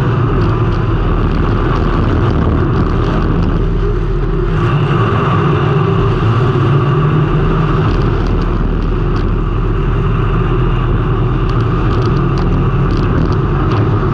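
Race car engine running steadily at speed, heard from a camera mounted on the car, with a constant rumble and a few short clicks.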